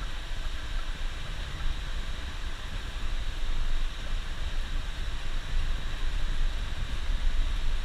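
Coach bus on the move, heard from inside: a steady low rumble of engine and road with an even hiss over it.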